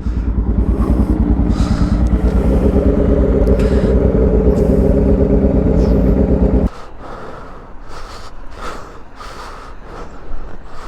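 Motorcycle engine idling steadily, then switched off abruptly about two-thirds of the way through. After that, only a series of light taps, about one or two a second.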